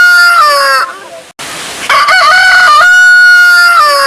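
Rooster crowing: the end of one crow, then after about a second's pause a second crow that falls in pitch at its close.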